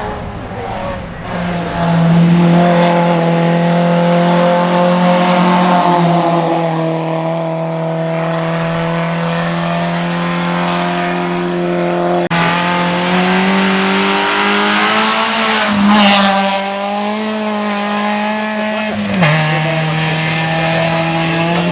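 Race car engine held at high revs, its pitch almost steady for long stretches. It climbs a little about two-thirds of the way through, then drops sharply near the end, as at a gear change or a lift off the throttle.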